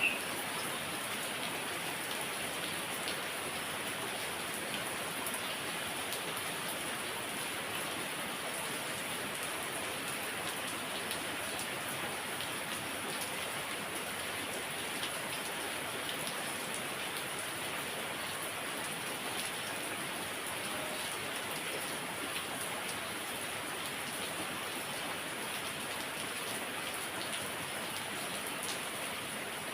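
Heavy rain falling steadily, an even hiss of rain on surfaces with scattered drop ticks.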